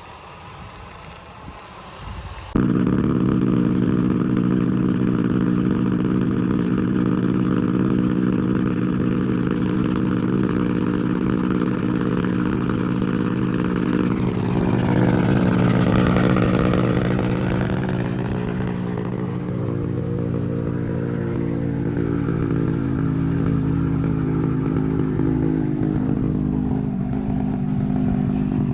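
Honda CB1000R's inline-four engine running steadily at idle, coming in suddenly about two and a half seconds in. A broad whoosh swells and fades from about halfway through.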